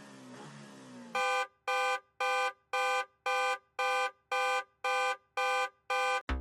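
Electronic countdown-timer beeps: about ten identical beeps, two a second, starting after a second of quiet background music, signalling that the quiz round's time is running out.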